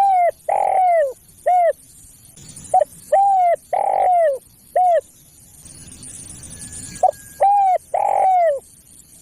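Spotted dove (tekukur) song: three repeated cooing phrases, each a short note followed by longer coos that drop in pitch at their ends.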